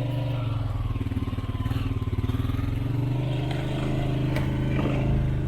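All-terrain vehicle engine running steadily while driving along a woodland trail.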